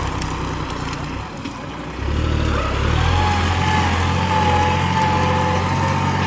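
Large New Holland farm tractor's diesel engine running under work. It eases off about a second in and comes back strongly around two seconds, and a thin high whine rides over it from about three seconds in.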